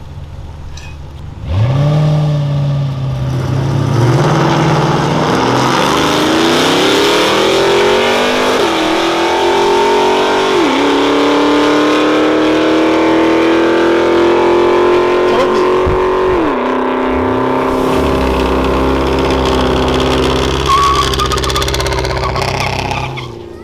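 A car's engine at full throttle: it comes in suddenly, climbs in pitch and drops sharply at each upshift, about three times, then eases down near the end.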